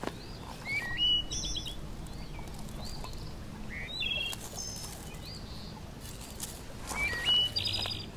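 Small birds chirping: clusters of short, quick, high whistled notes about a second in, around four seconds, and again near the end.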